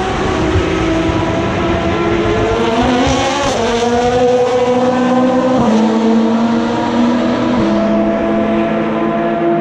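Endurance race car engines running hard at the track. One car's engine rises in pitch as it accelerates, then drops in steps at gear changes about six and eight seconds in, with other cars' engines overlapping.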